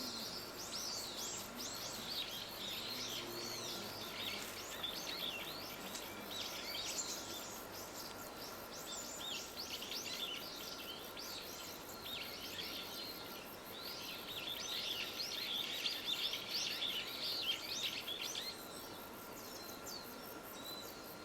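Many small birds chirping and calling, with short overlapping notes throughout; busiest a little over halfway through, then thinning near the end. A faint steady high tone runs underneath.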